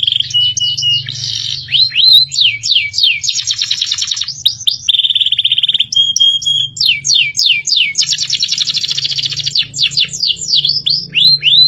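Recorded songbird song for masteran: fast buzzy trills alternating with runs of quick downward-sliding whistle notes, one after another without pause, over a steady low hum.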